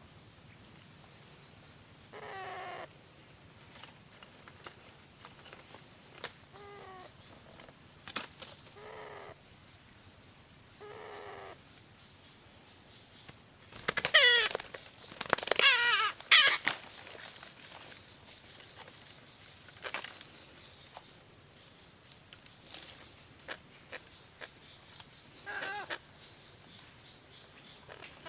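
Parrot chicks squawking: a few short harsh calls spaced several seconds apart, then a loud burst of rapid wavering squawks about halfway through, and one more call near the end, over a steady high-pitched hum.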